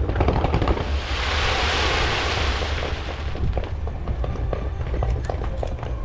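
Fireworks and firecrackers going off: sharp pops and crackles throughout, with a hissing swell from about one to three seconds in, over a steady low rumble.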